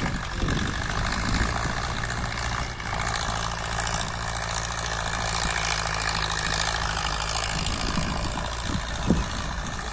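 Powertrac Euro 60 Next tractor's diesel engine running steadily while pulling a harrow, with a constant rushing noise over it. The engine's even note stands out clearly for a few seconds in the middle, then sinks back into the noise.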